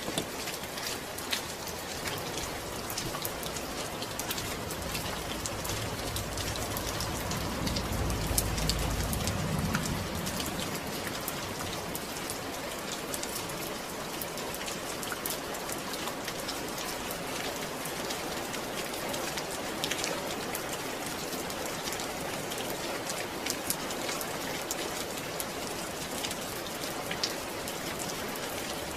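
Steady rain falling, with many separate drops patterning through the hiss. A low rumble swells and fades about a third of the way in.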